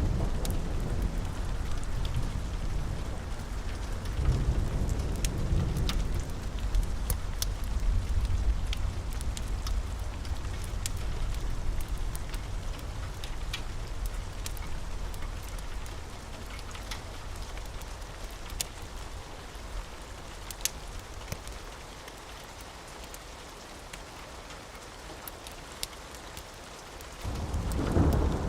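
Steady rain with a low rolling rumble of thunder that fades away over the first half and starts again loudly near the end, with scattered sharp crackles of a wood fire throughout.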